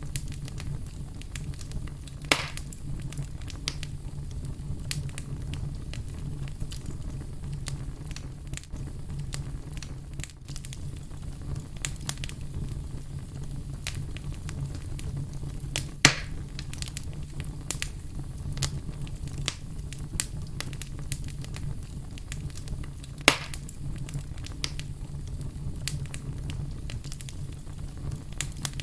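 Fire burning with a steady low rumble and frequent small crackles, and three louder pops, about two seconds in, about halfway through and near the end.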